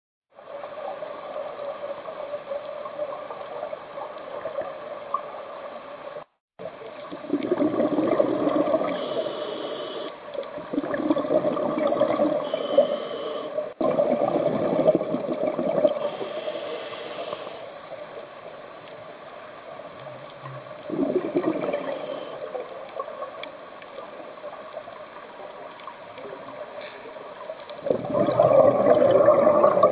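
Scuba diver's exhaled bubbles rushing and gurgling from the regulator in surges every six or seven seconds, heard underwater over a steady hum from the camera housing.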